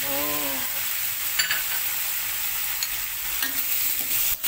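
Fermented mustard greens and anchovies sizzling in hot oil as they are stirred in the pan, a steady frying hiss with a few light clicks.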